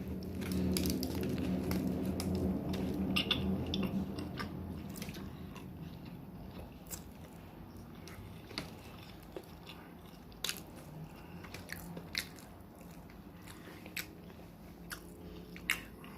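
Close-up eating sounds of a turkey and cheese sandwich being bitten and chewed, with scattered sharp mouth clicks. A low hum sits under the first four seconds.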